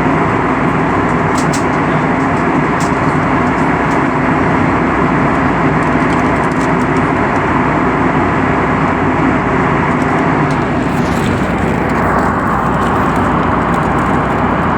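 Steady, loud rumble of an airplane in flight: engine and airflow noise with a low hum and a few faint clicks.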